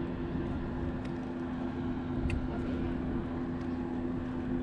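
Boat motor running with a steady hum.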